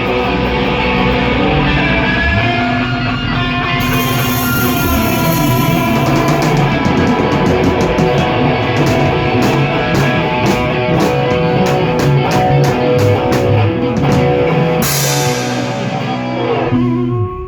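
Rock band playing live in rehearsal: electric guitar, bass and drum kit, with cymbal hits through the middle. The song stops abruptly near the end without the expected final cymbal crash, a missed ending.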